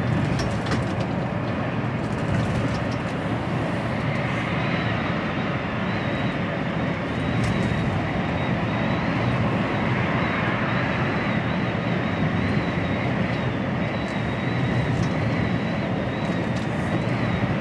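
Steady engine and road noise inside the cab of an HGV container lorry driving at speed, with a faint high whine over it.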